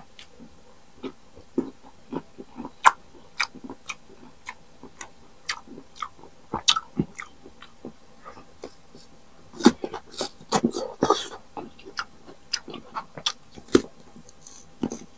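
Crunching and chewing of peeled unripe green mango: a string of crisp bites and chewing clicks, with a denser run of crunching about ten seconds in.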